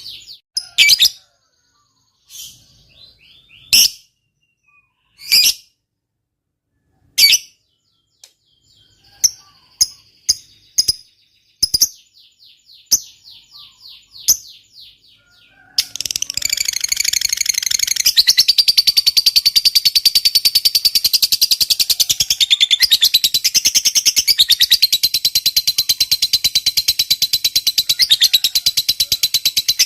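Lovebird calling: sharp separate chirps at first, then about halfway in a long, fast, unbroken chattering trill, the 'ngekek panjang' long chatter prized in a fighter lovebird.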